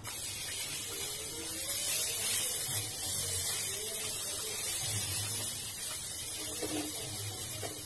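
Food sizzling in fat on a hot pan, a steady frying hiss that starts suddenly.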